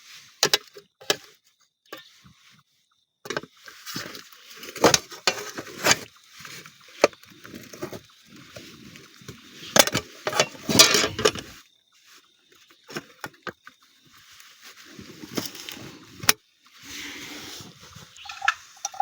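Camp cookware and gear being handled: irregular clinks and knocks of metal pots and utensils, with rustling between them.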